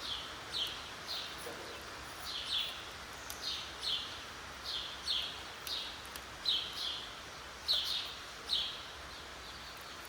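A small bird chirping over and over, short falling notes about one or two a second, over a faint background hiss.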